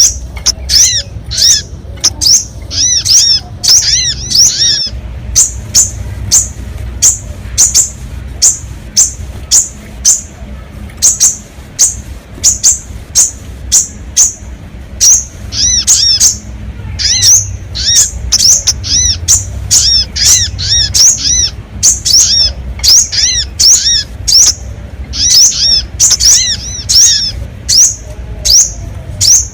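Bird-lure recording of the sogon's call: short, sharp, high chirps repeated one to two times a second, with a low hum underneath.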